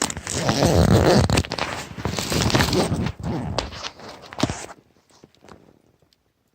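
Rustling and rasping of a sleeping bag as someone shifts and settles inside it, a dense scratchy noise with small clicks, which stops suddenly about five seconds in.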